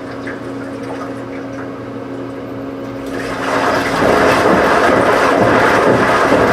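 Washing machine humming steadily, then a loud rush of water swells in about three and a half seconds in and keeps going, as the machine takes in or pumps out water.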